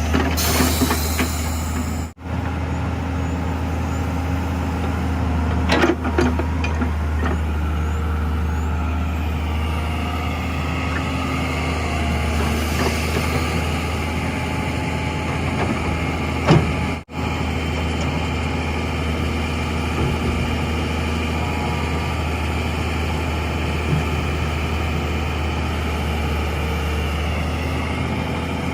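Heavy diesel engine of earthmoving machinery running steadily with a deep hum, with a couple of brief knocks and two momentary dropouts in the sound.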